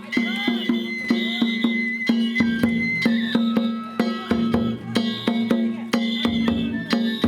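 Danjiri festival music: drums struck in a quick steady beat under a held high note.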